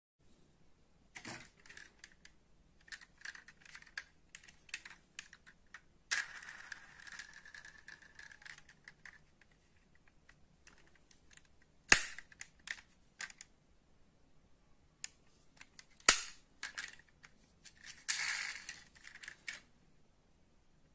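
Die-cast metal model cars being handled: scattered small clicks and taps, two sharp clacks a few seconds apart near the middle, and two stretches of rasping scraping noise, the longer one lasting about three seconds.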